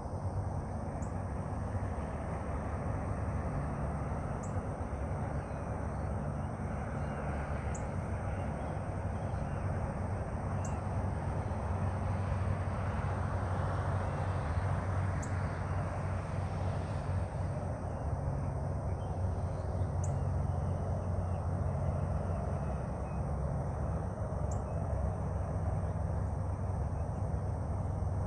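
Steady outdoor background noise: a low rumble under a wide hiss that swells slightly about halfway through.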